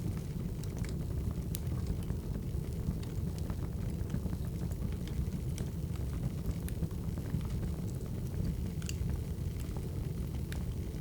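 Wood fire crackling: a steady low rumble of burning logs with scattered small sharp pops and snaps.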